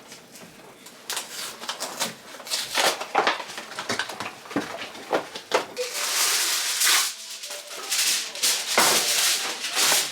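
Kitchen handling sounds: irregular clicks, taps and light rattles, with stretches of rustling, hissy noise in the second half.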